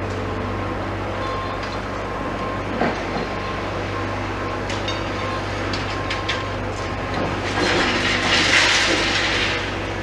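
Demolition excavator's engine running steadily, with scattered faint knocks and creaks and a louder rushing noise for about two seconds near the end.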